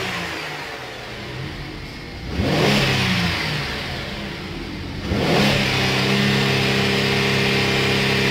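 2009 Holden Commodore's 3.6-litre V6 revved in Park. It rises and falls back once about two and a half seconds in, then is revved again about five seconds in and held steady at around 4,000 rpm.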